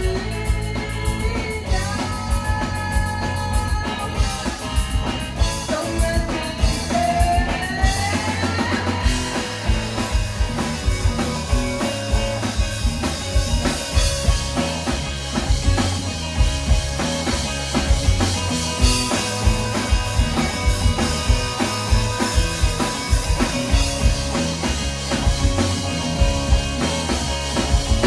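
Live rock band playing an instrumental stretch of a song, with a steady drum-kit beat and guitar; a held note slides upward a few seconds in.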